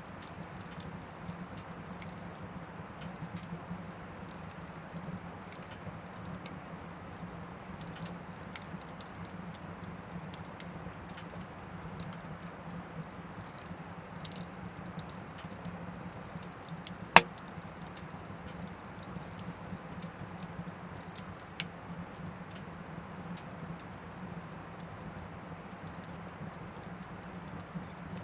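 Oak firewood burning in an Anevay Frontier Stove Plus wood stove: a steady soft crackle of many small ticks, with a sharp loud pop about 17 seconds in and a smaller one a few seconds later.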